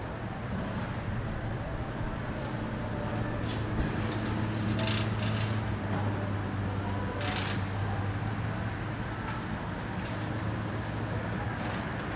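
Street traffic: a steady low engine hum from a nearby motor vehicle, louder through the middle, with a few short hisses.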